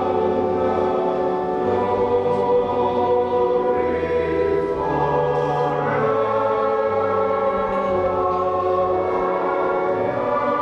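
Choir singing slowly in held chords that change every second or two, with low sustained notes underneath.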